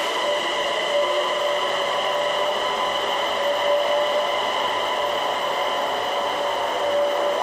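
Öresundståg electric multiple-unit train moving slowly along the platform, its electric traction giving a steady whine of several tones over running noise.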